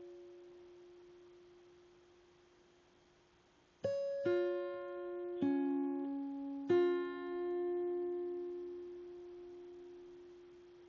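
Background music of slow, sparse piano notes: a held note fades out, then about four seconds in four notes are struck one after another and left to ring and fade.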